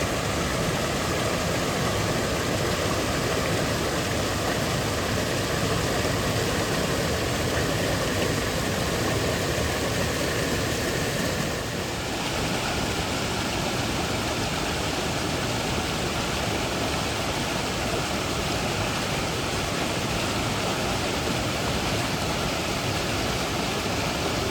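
Rushing creek water: a steady, even hiss that shifts slightly about halfway through.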